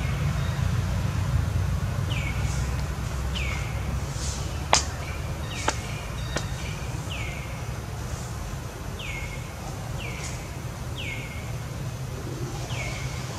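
A bird repeats a short call about eight times, each one sweeping down in pitch, over a steady low rumble. A sharp click a little before the middle is the loudest sound, followed by two fainter clicks about a second later.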